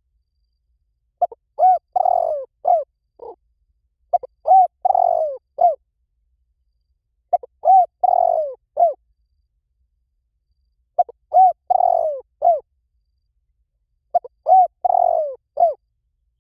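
Spotted dove cooing: five short phrases, each a quick run of three or four coos, repeating about every three seconds. This is the call that decoy trappers play to draw the birds in.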